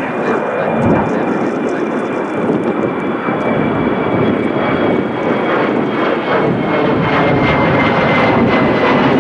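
Jet airliner engines running loud: a continuous rush with a high whine that slowly falls in pitch.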